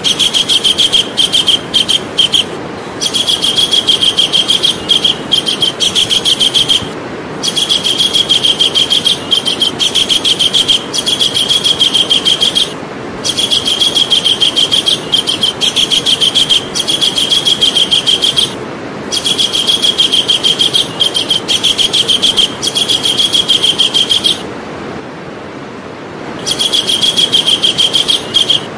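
Javan kingfisher calling: long runs of very fast, high repeated notes, each run lasting several seconds and broken by short pauses, with a longer pause near the end.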